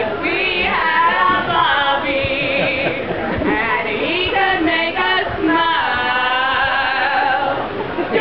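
Women's a cappella group singing, several voices together, unaccompanied.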